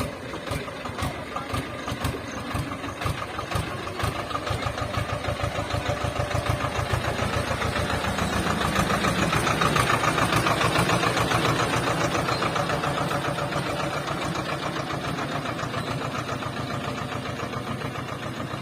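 Swaraj 724 FE 4WD tractor's diesel engine running with an even pulsing beat. The beat quickens and grows louder up to about halfway, then slowly eases off and fades.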